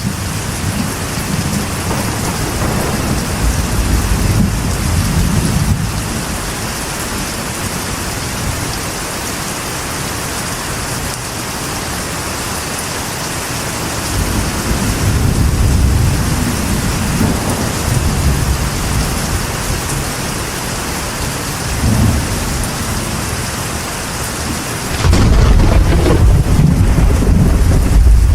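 Steady rain falling on a metal roof, with thunder rumbling in the low end: rumbles swell and fade twice, and a louder, deeper roll of thunder sets in suddenly near the end.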